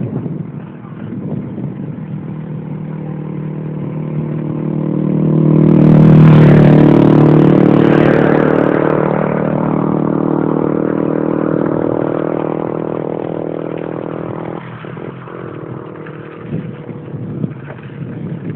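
A motor vehicle's engine passing close by: it grows louder over a few seconds, is loudest about six seconds in, then fades away over the following several seconds.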